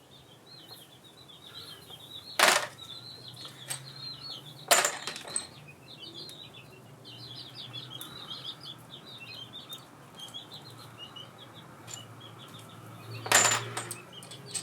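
Three sharp metal clinks, about two and a half, five and thirteen seconds in, from engine parts and tools being handled, over small birds twittering steadily in the background.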